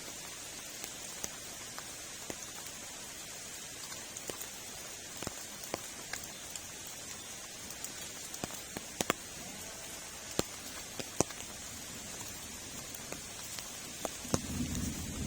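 Steady rain, with scattered sharp drops striking close by. A low rumble of thunder sets in near the end.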